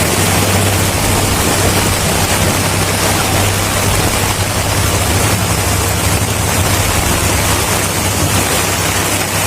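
A loud, steady rush of storm noise from strong wind and rain, with a steady low drone underneath.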